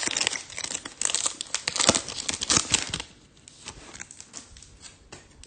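Foil wrapper of a Topps Chrome trading card pack being torn open and crinkled, a dense crackling for about three seconds, then dying down to a few faint ticks as the cards are handled.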